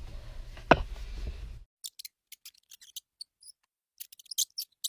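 A single sharp knock over a low room hum, then a run of faint, irregular clicks and scratchy ticks.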